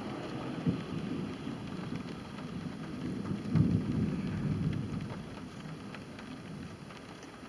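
Thunder rumbling low, swelling about three and a half seconds in and then slowly fading.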